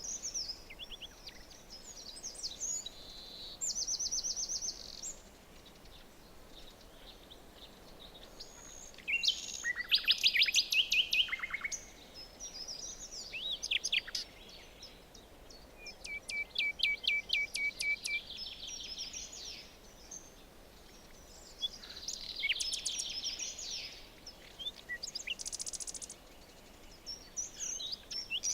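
Several songbirds singing in a forest: a chorus of short trills and chirping phrases from different birds, with quieter gaps between, over a faint steady background hiss.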